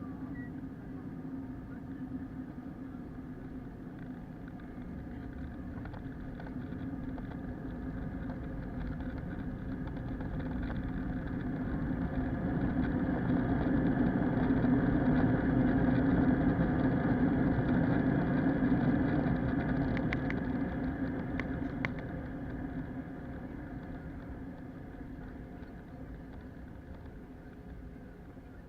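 An Airbus A321's engines heard from inside the cabin, with a steady drone that swells to a peak over several seconds and then winds back down, with a few light clicks near the peak.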